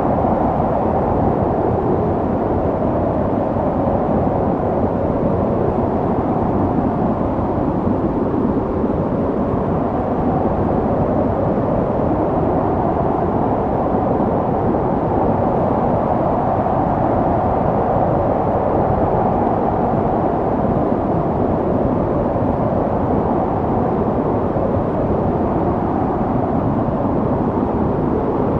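Snowstorm wind blowing steadily, a low rushing noise that swells and eases gently.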